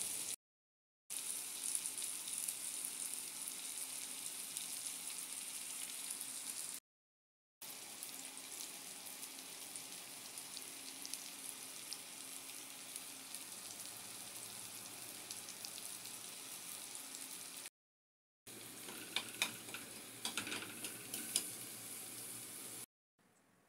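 Eggs and sliced tomatoes sizzling as they fry in hot oil in a pan, a steady hiss with sharper pops and crackles near the end. The sizzle drops out briefly to silence three times.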